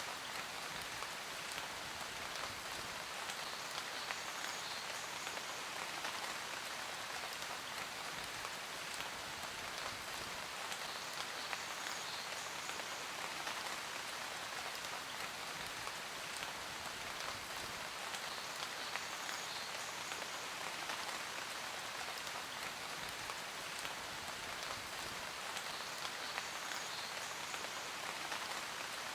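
Steady rain falling, an even rushing hiss flecked with many small drop ticks.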